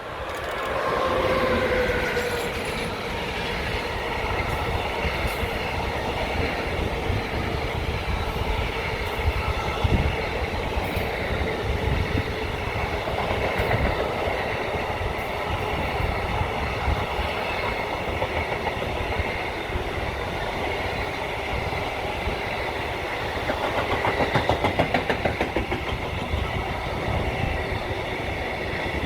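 A train passing close by. Near the start a whine drops slightly in pitch as the front goes past, then a long steady rush and rumble of the passing cars follows, with a run of rhythmic wheel beats near the end.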